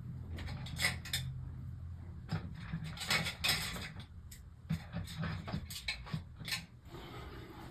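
Small sharp clicks and brief scraping of a MacBook keycap and its plastic scissor mechanism being worked at by hand, a dozen or so clicks spread irregularly, with a longer scrape about three seconds in, over a steady low hum.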